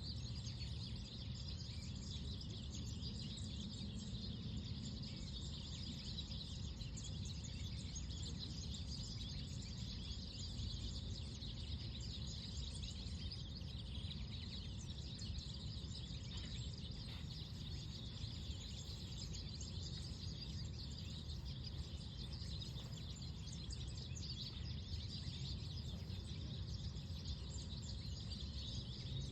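Park ambience: many small birds chirping continuously over a steady low rumble of wind.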